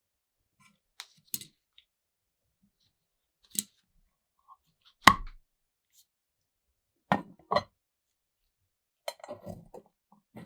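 Hard small parts being handled and set down, a series of separate clinks and clicks with silence between them. The loudest comes about halfway through, two more follow close together, and a short run of clinks comes near the end.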